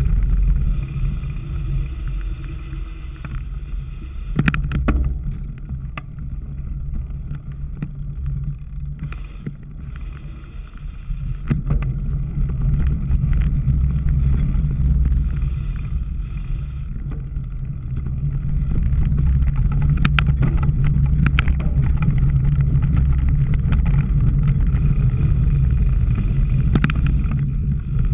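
Wind rumble and the rattle of a cyclocross bike ridden over rough ground, with scattered sharp clicks and knocks; louder from about two-thirds of the way in.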